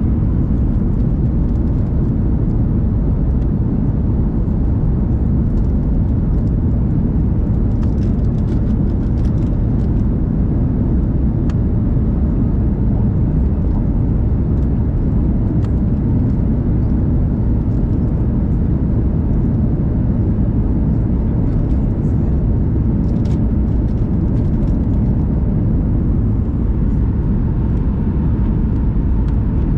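Airliner cabin noise during the descent to landing: a steady, even jet engine and airflow rumble, with a faint steady hum and a few faint ticks.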